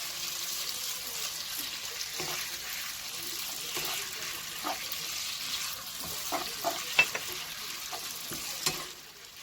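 Food sizzling in a frying pan as it is stir-fried, with scattered clicks and taps of a utensil against the pan, the sharpest about seven seconds in.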